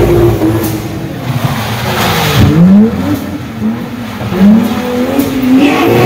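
Car engine revving hard, its pitch repeatedly climbing and dropping, with a sharp drop and climb about two seconds in.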